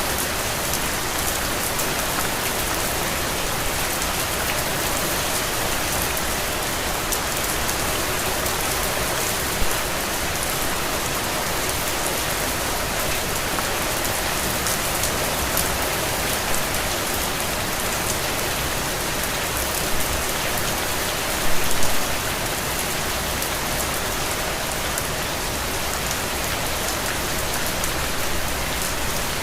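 Steady rain falling outdoors, an even dense patter. A few louder drops or taps stand out, one about a third of the way in and a short cluster about three-quarters through.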